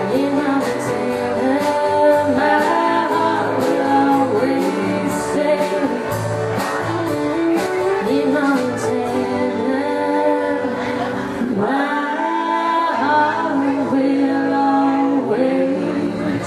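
Country band song: a sung melody over strummed guitar, with a regular beat through the first half.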